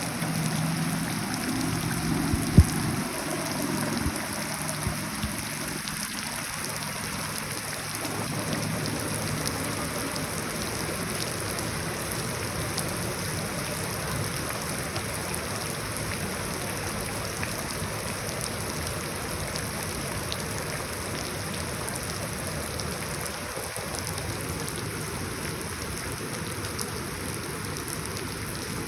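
Rain falling into puddles, a steady hiss of drops throughout. A low hum lasts through the first several seconds, and a single sharp knock comes about two and a half seconds in.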